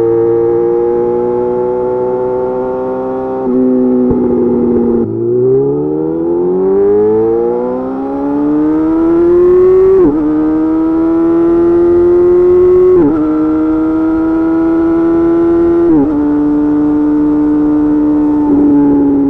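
Yamaha YZF-R6 inline-four engine through an M4 GP slip-on exhaust, accelerating: after a brief dip in revs, the pitch climbs in one long rising rev, then drops sharply three times as the bike shifts up a gear, holding steadier between shifts. Near the end the revs fall away.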